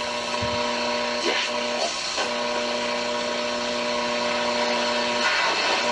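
Hallicrafters S-120 shortwave receiver hissing with static and a steady electrical buzz from its speaker, with a few brief sweeps in pitch. The owner takes the interference for noise from a nearby fluorescent light.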